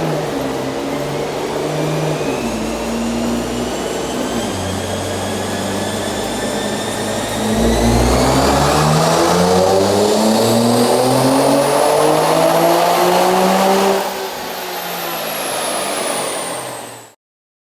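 Twin-turbocharged Nissan 370Z's 3.7-litre V6 running at light throttle. About eight seconds in it goes to full throttle for about six seconds, the revs climbing steadily under a high turbo whine that rises with them. The throttle then lifts, and the whine falls away before the sound cuts off suddenly.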